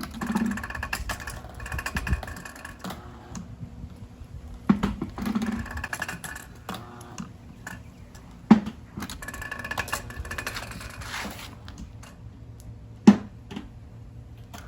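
Homemade low-RPM hydraulic engine running slowly. It gives a sharp knock about every four seconds, with light clicking and a steady whine lasting a couple of seconds after the first three knocks.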